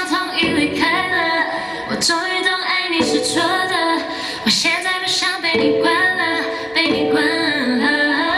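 A woman singing a melody, the voice gliding between held notes.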